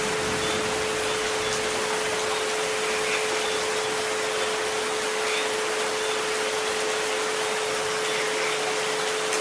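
Steady rain hiss with two steady pure tones held underneath, 432 Hz and 528 Hz sleep frequencies.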